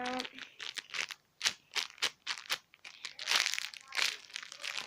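Crinkly plastic wrapping of a squishy toy being handled, with irregular crackles that come thickest in two clusters about three and four seconds in.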